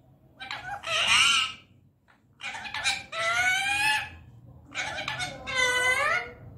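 Indian ringneck parakeet calling: three drawn-out calls about a second apart, the last rising and then falling in pitch.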